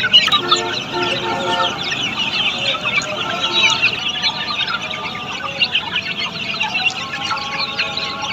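A crowd of Australorp chicks peeping continuously, a dense overlapping chorus of short high chirps, with a few lower, longer chicken calls near the start and again in the second half.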